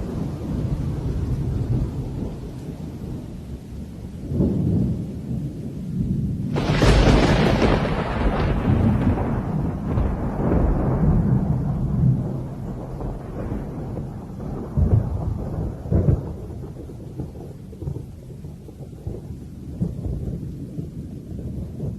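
Thunderstorm: continuous deep thunder rumbling over rain, with a loud clap about six and a half seconds in that dies away over several seconds, and smaller surges later.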